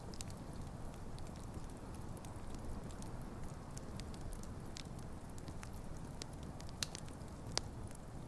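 Wood campfire burning: a steady low rumble of flames with scattered sharp crackles and pops, the loudest two near the end.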